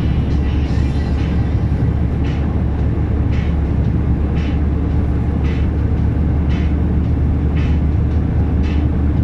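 Cab interior of a loaded DAF 460 automatic truck on the road: the diesel engine drones steadily and low. A light tick comes about once a second.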